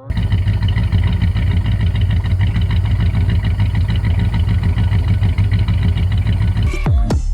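Car engine idling steadily, a deep, even running sound with rapid pulsing; it cuts off abruptly near the end.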